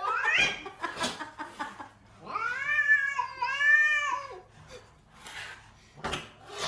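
A domestic cat meowing: a short rising meow at the start, then two long drawn-out meows that rise and fall in pitch, between about two and four seconds in.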